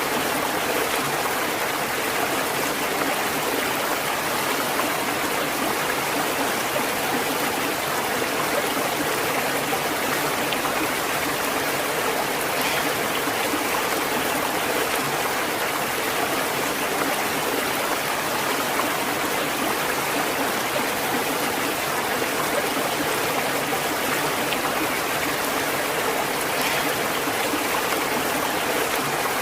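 Stream water running steadily over rocks, an even rushing and babbling that holds at one level throughout.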